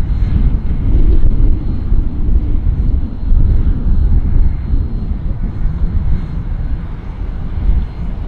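A boat's engine running with a low, steady rumble as it comes in toward the ramp.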